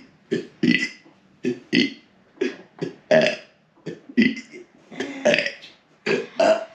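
A rapid series of short, burp-like throat noises from a person, about two a second, made to get a child laughing.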